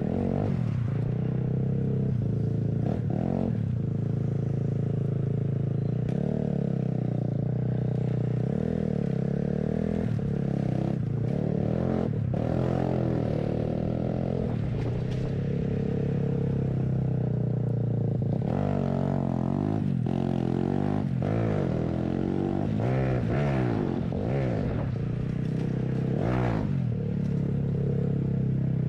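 Kawasaki mini bike with an aftermarket exhaust, its engine running loud while being ridden, the revs rising and falling again and again through the gear changes.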